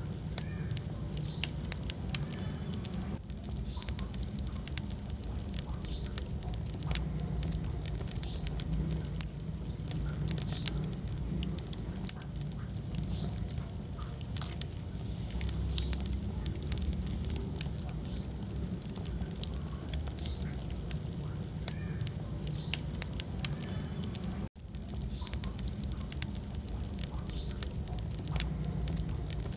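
Wood fire burning in a fireplace: frequent quick crackles and pops over a steady low rumble of the flames. The sound cuts out for an instant about 24 seconds in.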